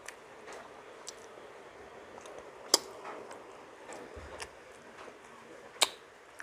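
Close-up eating sounds: soft, wet chewing of milkfish and rice, broken by two sharp clicks, about three seconds apart, and a few fainter ones.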